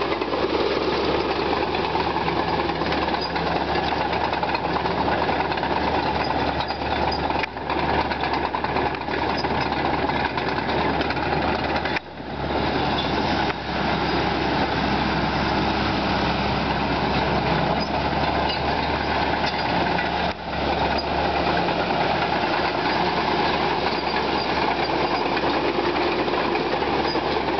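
Caterpillar D4H crawler dozer's diesel engine running steadily, with a few brief dips in level.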